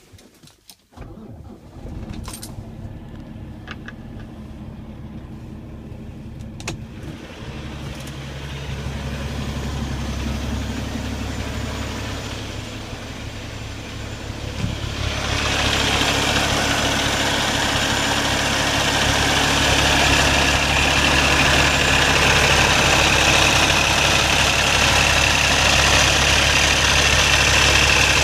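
Cummins ISX inline-six diesel in a Peterbilt 388 tractor being started: it cranks for several seconds, then settles into a steady idle. About halfway through the idle grows much louder and brighter, the engine heard up close.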